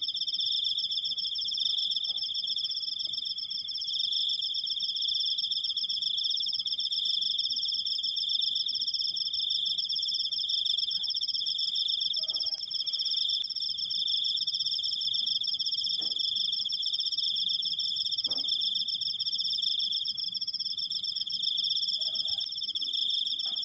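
Crickets trilling in one long, unbroken, high-pitched trill, with two steady trills at different pitches. A few faint short sounds come in underneath now and then.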